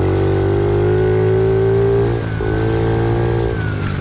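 Pit bike engine running under throttle, its pitch creeping slightly upward, with a brief dip about two seconds in.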